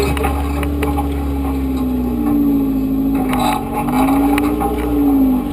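Suzuki Samurai's engine running under load, its pitch rising and falling several times as it crawls over the creek bed, with scattered knocks.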